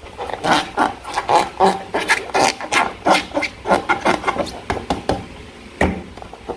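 Slime being squished and worked by hand, making a quick, irregular run of sticky squelches and crackles. It thins out near the end to a couple of sharp clicks.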